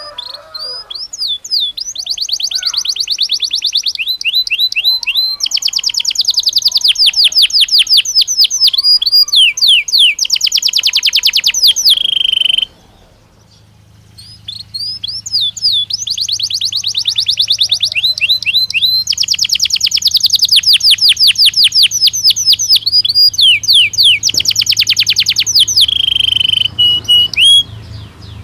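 Belgian canary singing two long song phrases of fast trills and rapid repeated notes, with a short pause about halfway through.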